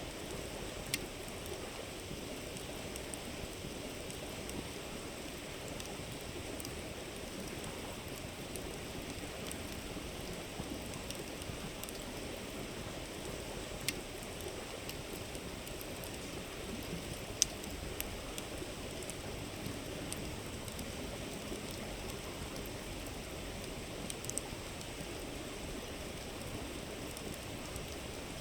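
River flowing with a steady murmur, with a campfire crackling now and then: a few sharp pops, the loudest a little past halfway.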